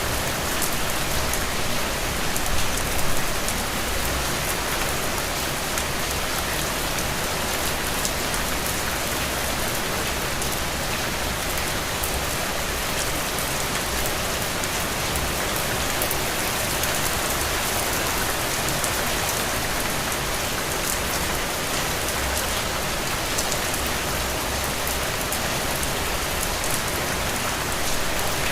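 Heavy rain falling steadily, an even hiss and patter, with a brief louder swell about three seconds in.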